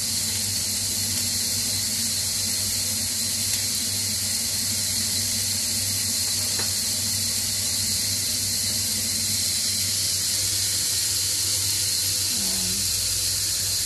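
Broccoli florets sizzling steadily in olive oil on a hot, heavy grill pan, an even hiss with a low hum beneath it.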